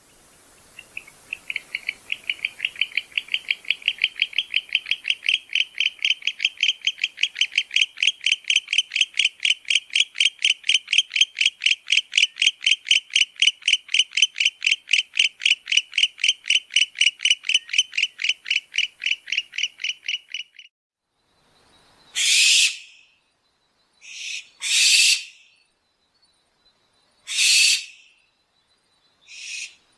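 Owl calling: a long run of rapid, high-pitched toots, about three or four a second, that stops about two-thirds of the way through. It is followed by four short, harsh, hissy shrieks a couple of seconds apart.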